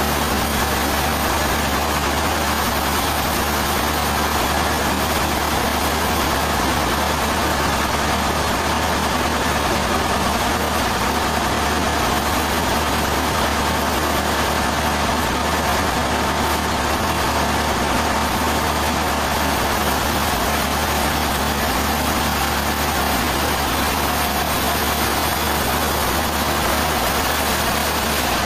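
Sawmill machinery running steadily: an even engine drone under a dense hiss that does not change.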